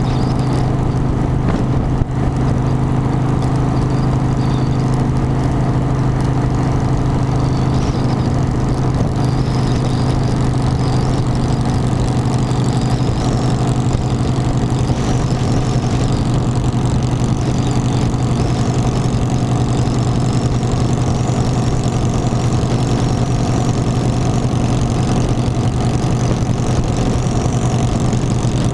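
Motorcycle engine running at a steady, unchanging pitch with a strong low hum.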